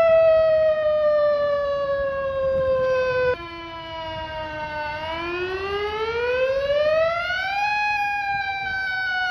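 Fire engine's siren wailing. Its pitch slides slowly down and drops away abruptly a little over three seconds in, then rises steadily from about five seconds to nearly eight seconds in before sliding slowly down again.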